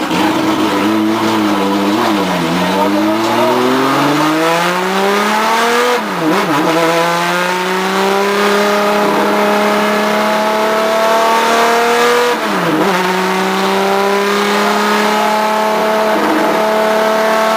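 Race car engine heard from the cockpit, accelerating hard: its note sags and bottoms out about two and a half seconds in, then climbs steadily, with two upshifts, about six and about twelve and a half seconds in, each dropping the pitch before it rises again.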